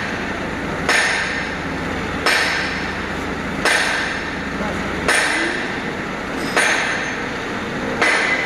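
Six evenly spaced hammer blows on metal, about one and a half seconds apart, each ringing briefly, over a steady low machinery hum.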